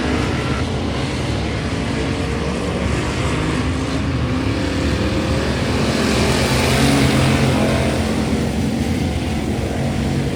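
Race car engine running hard at speed, its pitch sliding up and down, with a swell of noise about six to eight seconds in.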